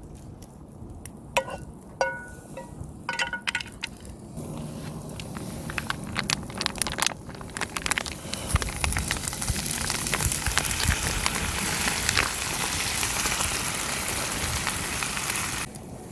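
A few metal clinks with short ringing, then food sizzling in a hot pan: the sizzle starts about four seconds in, grows louder with dense crackling, and cuts off suddenly near the end.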